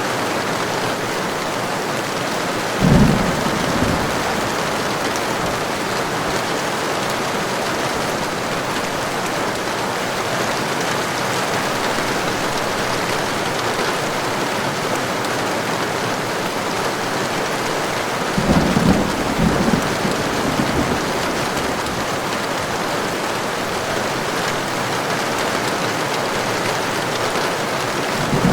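Heavy rain falling steadily, with deep rumbles of thunder: a short one about three seconds in, a longer rolling one past the middle, and another starting at the very end.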